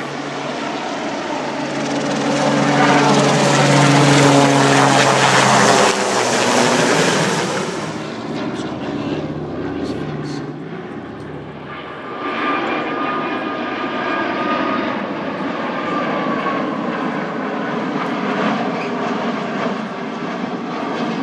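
Aircraft engine noise from a plane flying past, swelling to its loudest a few seconds in, easing off in the middle, then rising again.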